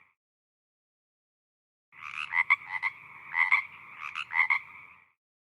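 A frog calling: three bursts of short, rapid croaking pulses, starting about two seconds in.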